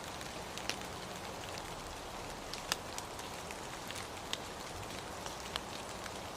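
Steady rain: an even hiss with scattered sharp taps of single drops striking, the loudest a little under halfway through.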